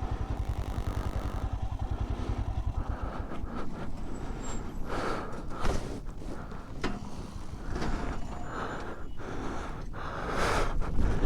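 Motorcycle engine running at idle with an even low beat that dies away in the first few seconds, followed by irregular scraping and clattering noises.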